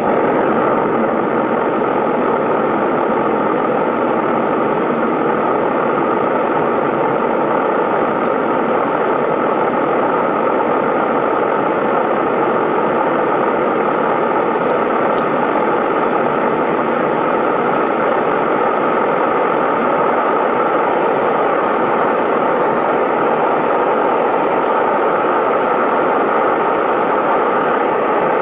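Metal-melting furnace's burner running at full fire: a loud, steady rushing noise with a faint constant tone, unchanging throughout.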